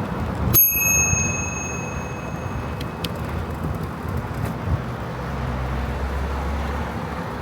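Bicycle bell on the handlebars struck once about half a second in, then ringing out and fading over about two seconds. Steady road and wind noise runs beneath it, with a low hum near the end.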